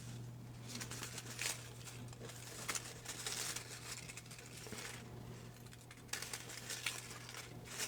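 Paper slips crinkling and rustling in a few bursts, with soft clicks, as names are rummaged for and drawn from a hat. A steady low hum runs underneath.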